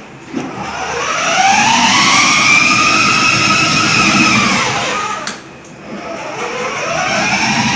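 Electric drive motors of a 12V ride-on toy police car whining, rising in pitch as the car speeds up, holding, then falling away as it stops about five seconds in; a moment later it starts up again, its pitch rising.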